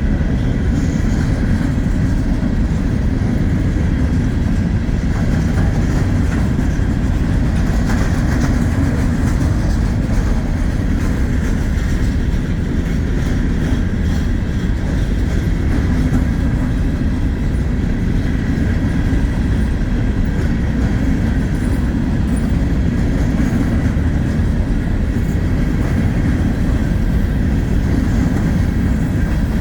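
Freight cars rolling past, a steady loud rumble of steel wheels on rail with a faint high whine over it.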